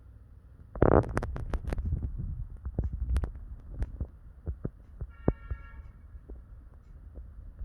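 A burst of irregular knocks and taps with a low rumble, starting about a second in and thinning out, with a brief tone near the middle.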